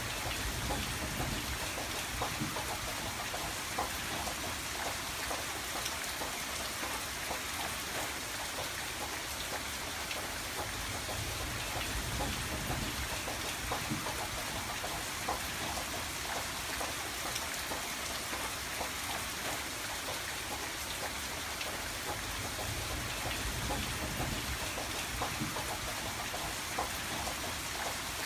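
Steady rain on a window pane, a continuous patter of many small drops without pause.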